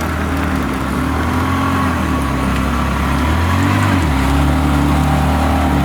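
A car's engine idling at low revs, a steady low rumble that shifts slightly in pitch about three to four seconds in.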